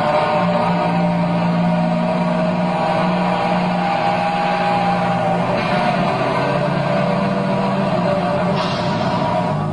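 Heavy metal band playing live, loud and continuous, with long held chords that change about halfway through and again near the end.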